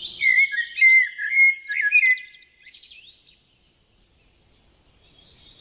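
Pet parrots chirping in quick, rising and falling calls for about three seconds, then falling almost silent.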